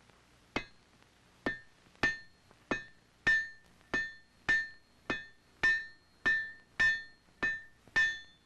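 Blacksmith's hand hammer striking hot iron on an anvil, forging an iron breech plug for a rifle barrel: thirteen steady blows, a little under two a second, each with a short metallic ring, growing louder after the first few.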